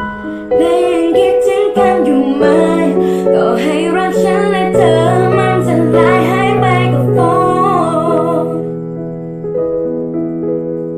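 A young girl sings a long, wavering melodic line over piano accompaniment. Her voice stops nearly nine seconds in and the piano plays on alone.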